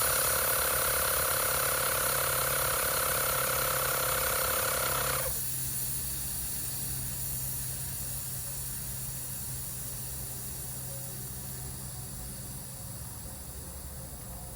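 Fanttik X8 Apex battery-powered portable air compressor running steadily while inflating a bicycle tire. About five seconds in, its sound drops abruptly, and a quieter hum and high whine carry on, fading slowly.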